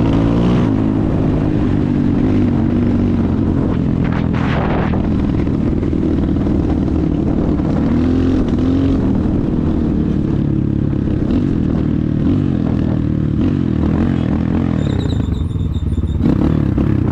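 Enduro motorcycle engine running under way, its pitch rising and falling as the throttle is worked.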